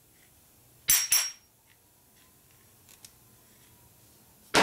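Small steel engine parts clinking sharply against each other, the rocker-arm pieces of a panhead being handled and checked: two quick clinks about a second in, and a louder one near the end.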